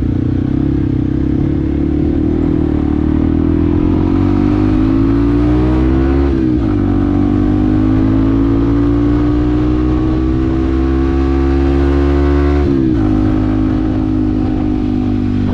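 Yamaha WR155R's single-cylinder engine under way, rising steadily in pitch as it accelerates, with a sharp drop about six seconds in and another near thirteen seconds as it shifts up a gear, then running at a steady pitch.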